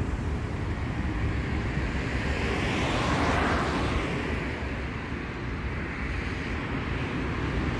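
City street traffic: a steady low rumble, with one vehicle passing close by that swells to its loudest about three seconds in and then fades away.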